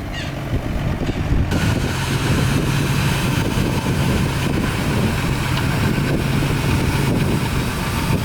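Heavy diesel earthmoving machinery running steadily with a deep, even engine drone. A rushing, hissing noise joins about a second and a half in and continues.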